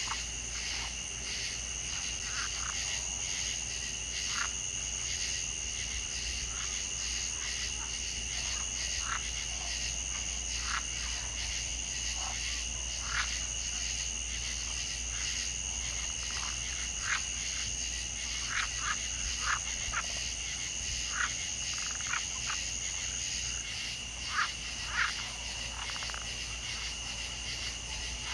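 Chorus of frogs and insects: two steady high-pitched trills, the higher one stopping about three-quarters of the way through, with short frog calls scattered irregularly over them.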